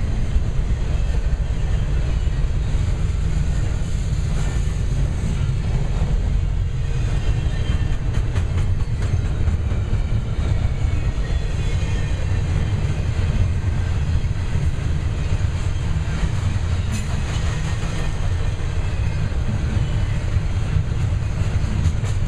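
Double-stack intermodal freight cars rolling past: a steady, heavy low rumble of steel wheels on rail, with faint clicks over the rail joints.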